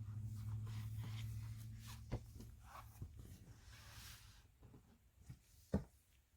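Faint handling noise: soft rustling and a few clicks over a low hum that fades after about two seconds, with a sharper click about two seconds in and the loudest click near the end.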